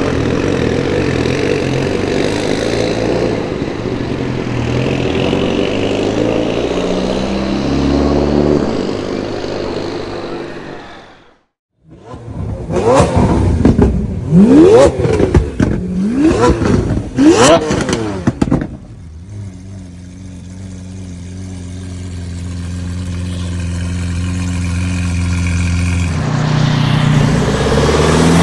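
Modified car engines running. After a brief cut, one engine is blipped hard several times, its pitch climbing and falling quickly with sharp cracks from the exhaust. Then a steady low engine note grows louder as a car draws near.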